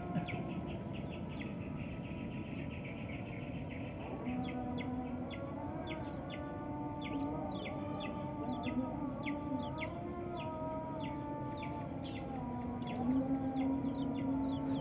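White-eye (pleci) singing: a rapid run of short, high notes that each sweep downward, coming thickest from about four seconds in. Steady lower calls or tones sound underneath.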